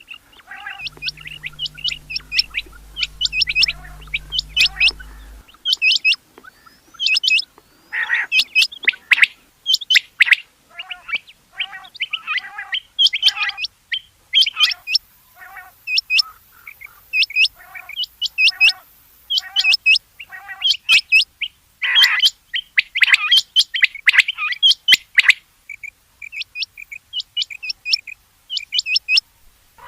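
Rain quail calling over and over: short, sharp, high-pitched notes, often in quick pairs, repeated every second or so. A series of lower, softer notes runs steadily under them for a stretch in the middle.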